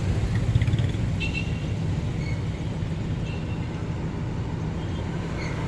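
Road traffic: a steady low rumble of passing cars, with a few faint short high tones here and there.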